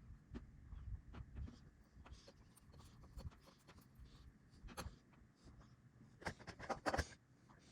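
Scattered light clicks and knocks, with a few louder ones near the end.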